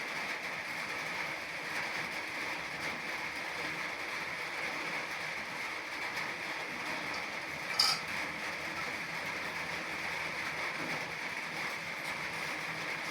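Steady rain falling, an even hiss, with one short sharp click about eight seconds in.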